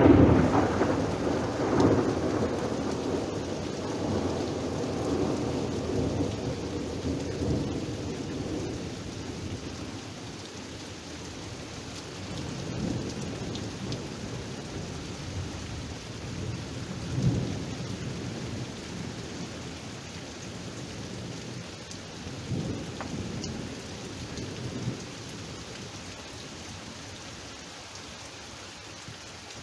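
Thunderstorm: heavy rain falling steadily, with rolling thunder. A loud peal at the start rumbles away over several seconds, and further low rumbles come near the middle and again toward the end.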